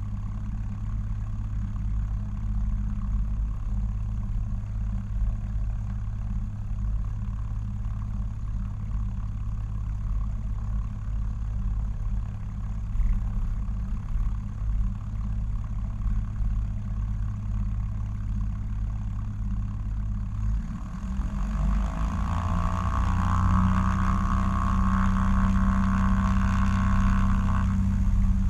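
Cessna 172XP's six-cylinder engine and propeller running steadily at low power, then about twenty seconds in the throttle opens for the takeoff run: the pitch rises and the sound grows louder and fuller.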